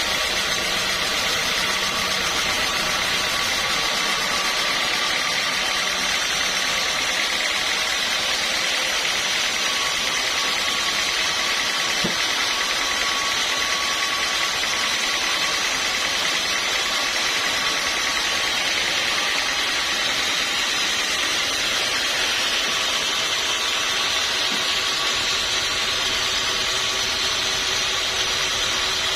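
Steady, unchanging machinery noise, like an engine or sawmill machine running continuously, with a faint steady hum of a few tones under a hiss-like wash.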